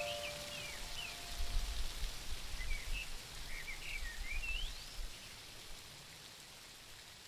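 The last note of the background music fades out, and birds chirp in short, quick calls over a soft steady hiss for about five seconds; one call rises sharply near the end. The hiss then slowly fades.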